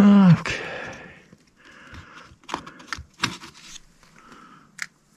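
Short scraping and rustling handling sounds with a few sharp clicks and knocks, as metal parts and tools are handled and checked at a workbench; no drill or motor running.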